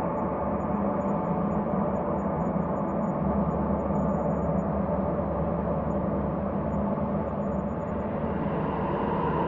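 Ambient space drone: many held, layered tones sustained without a break, with a deep low hum coming in about three seconds in.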